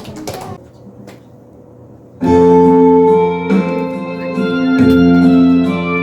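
A few last claps die away, and about two seconds in a harmonica ensemble starts playing in unison, a full, sustained, reedy chordal sound.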